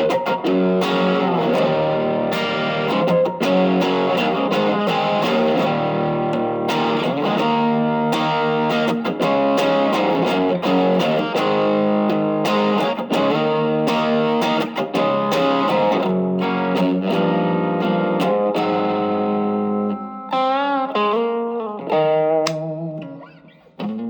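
Electric guitar played through an Ibanez TS808 Tube Screamer overdrive pedal set as a boost, giving a lightly distorted tone: chords and riffs, then about twenty seconds in, single held notes with vibrato that fade toward the end.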